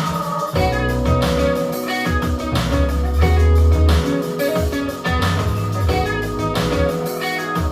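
Music played back over Celestion Ditton 15 XR loudspeakers: a guitar-led track with deep bass notes and a steady beat about twice a second.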